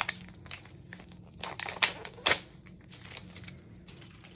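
Paper wrapping being crinkled and torn off a Mini Verse capsule by hand: a series of short, sharp crackles, loudest in a cluster about one and a half to two and a half seconds in.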